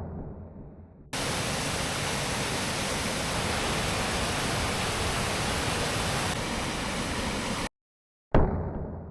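Steady roar of a waterfall. A sharp hit fading away opens the stretch, the sound drops out briefly near the end, and another sharp hit with a fading tail follows.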